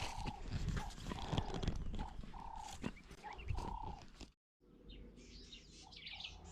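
Footsteps on the farm ground, with a short call repeating every half second or so. About four seconds in, the sound cuts out briefly, and then small birds chirp faintly.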